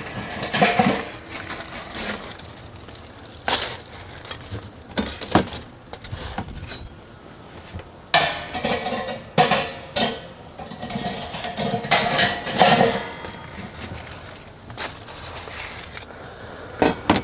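Metal clanking and clinking of the oil-less fryer's cooking basket and rib hooks as racks of baby back ribs are lifted out and set down. It comes as a string of separate knocks and clinks, some with a brief metallic ring.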